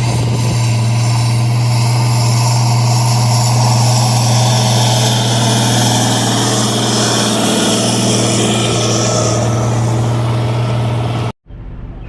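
An engine running steadily with a constant low hum. The sound cuts off abruptly near the end.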